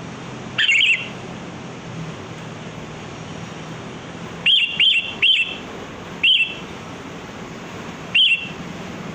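Sooty-headed bulbul calling in short, bright chirps: one call near the start, three in quick succession around the middle, then two more singly, over a steady low hum.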